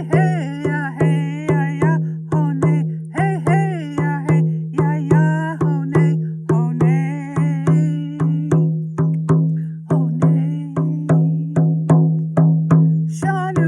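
A woman singing a traditional Lakota song to a steady drum beat of about two strokes a second. Her voice drops out for several seconds in the second half while the drum keeps going.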